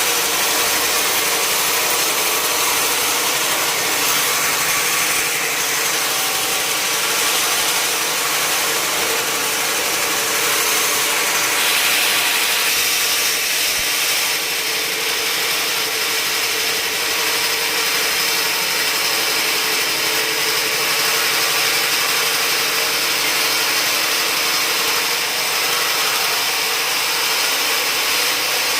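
Sawmill saw running steadily as it cuts lengthwise through a large log, a continuous loud cutting noise over the drone of the machine's motor.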